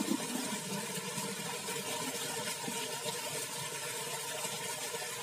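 Steady rushing noise of wind and water, even throughout with no sudden events.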